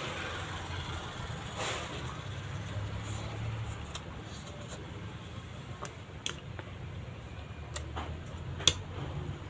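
A person eating chow mein noodles: mouth noises of chewing and a slurp-like rush about two seconds in, with a few sharp clicks toward the end, the loudest near the end. A steady low rumble of traffic or a fan runs underneath.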